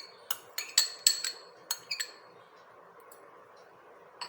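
Utensils clinking against a mixer jar and bowl as ingredients are spooned in: a quick run of about eight light clinks in the first two seconds, then quiet until one more clink at the end.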